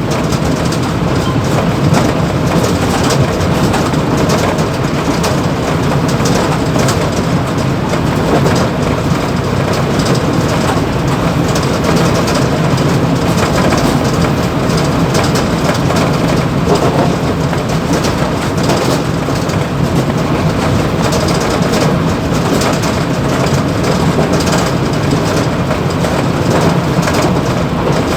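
Mumbai local EMU train running at speed, heard from the motorman's cab: a steady rumble of wheels on rail with dense, continuous rattling from vibration in the cab.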